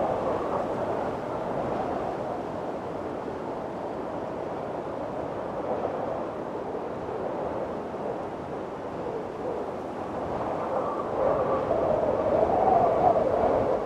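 Windstorm: strong wind blowing steadily, rising and falling in gusts, easing a little mid-way and swelling again near the end.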